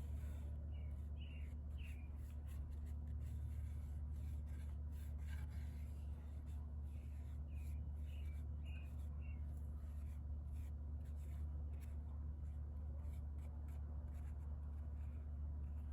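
Light scratching and rubbing with many small clicks, over a steady low hum, with a few short high chirps in the first half.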